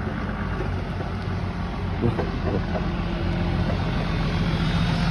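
An engine running at idle with a steady low hum that grows a little louder near the end, and a short knock about two seconds in.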